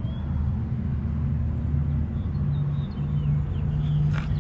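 A 1957 Chevrolet 3100 pickup's 350 small-block V8 idling steadily with a low drone.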